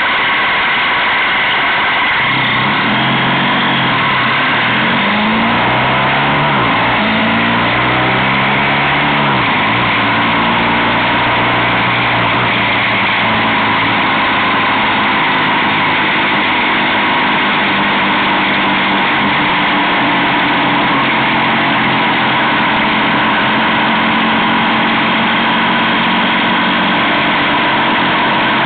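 Motorcycle engine pulling away and accelerating up through the gears, its pitch climbing and dropping back at each upshift, then running steadily at cruising speed with constant wind rush.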